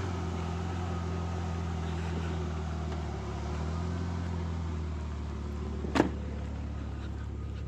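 Vehicle engine and road noise while driving: a steady low hum whose pitch shifts slightly about three seconds in, with one sharp click about six seconds in.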